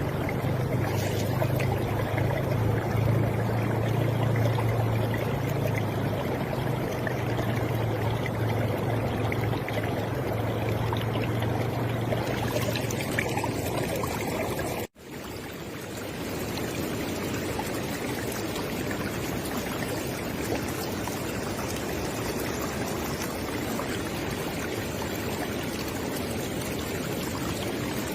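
River water flowing in a steady rush, with a low rumble under it that fades out before the middle. About halfway through the sound drops out for an instant at a splice, then the flowing resumes.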